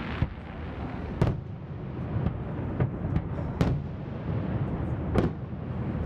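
Aerial fireworks shells bursting: a string of sharp bangs, each trailing off in an echo, the loudest about a second in, at three and a half seconds and at five seconds. A steady low rumble runs underneath.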